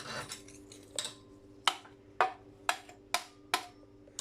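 Brass light fitting being knocked and worked with a hand tool while it is being broken apart for scrap. There are about seven sharp knocks, roughly two a second, over a faint steady hum.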